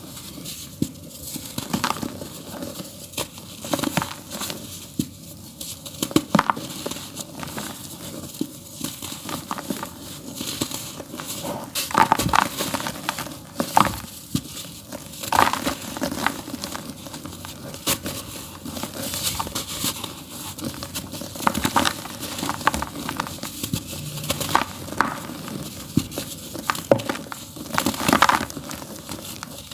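Dry earthy dirt being crumbled in a tub: a steady run of irregular gritty crunches and crackles, with sharper, louder crunches every second or two.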